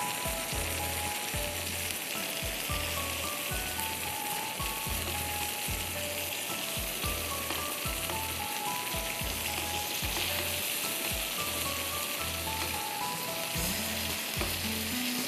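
Marinated chicken breasts sizzling steadily as they pan-fry in olive oil, over background music with a regular beat.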